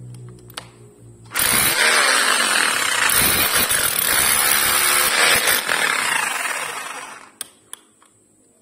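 Rotary hammer drill running loudly for about five seconds, then winding down. Two sharp clicks follow near the end.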